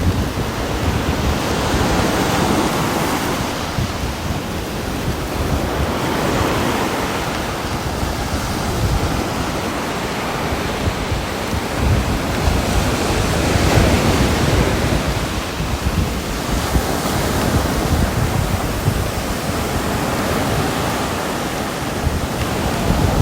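Rain ambience: a dense, steady rushing hiss with a heavy low rumble, swelling and easing every few seconds.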